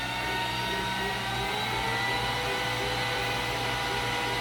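Glowforge Plus laser cutter's fans spinning up as a job starts: a whir that rises in pitch and levels off into a steady hum about two seconds in.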